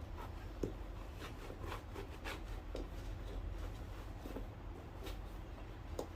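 Scattered light scrapes and taps of hand work on a shoe, about one every half second to second, with a sharper tap a little after the start and another near the end, over a low steady hum.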